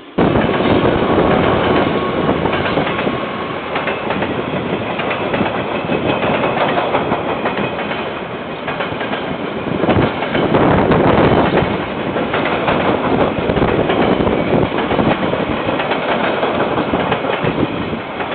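A KiwiRail train rolling past, its wheels clattering steadily over the rails.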